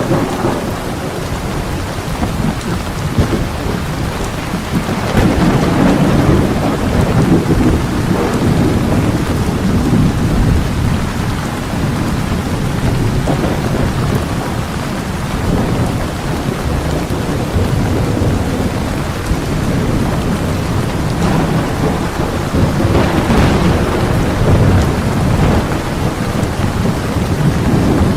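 Heavy rain pouring steadily, with low thunder rolling underneath in long swells, twice building and fading.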